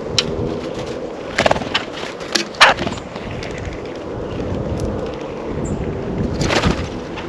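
A handful of sharp taps and knocks at a bird feeder, the loudest about two and a half seconds in and a cluster near the end, over a steady low rumble.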